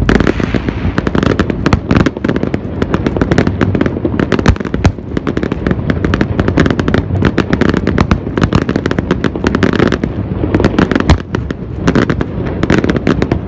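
Aerial fireworks display: a dense, unbroken barrage of shell bursts and crackling, many sharp bangs overlapping one another.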